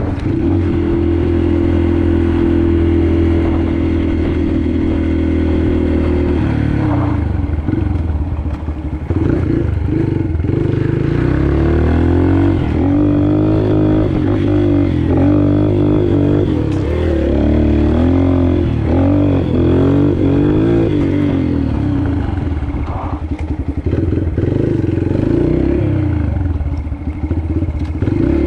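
Yamaha TT-R125 pit bike's single-cylinder four-stroke engine running under way: steady at first, then its pitch rising and falling again and again as it is revved up and eased off from about seven seconds in.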